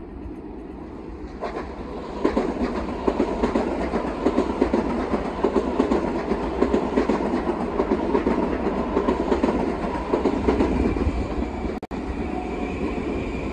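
Long Island Rail Road M9 electric multiple-unit trains passing, one of them close by. The steel wheels clatter rapidly over the rail joints, getting louder about two seconds in. A high steady whine joins near the end.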